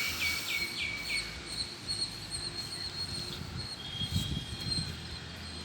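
Small birds chirping, with a quick run of about five short notes in the first second and a brief call later, over a steady high-pitched insect drone.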